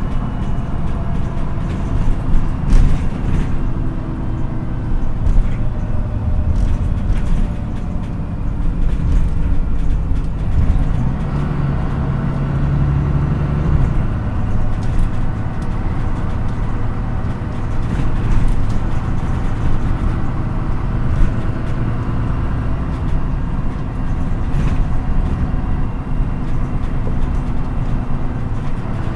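MAN NÜ 313 bus engine running under way, heard from inside the passenger cabin; its pitch rises and falls with speed, with scattered short rattles from the interior.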